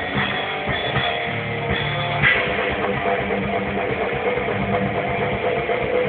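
A rock band playing live, with distorted electric guitars and a drum kit, loud and heavily clipped on a phone's microphone.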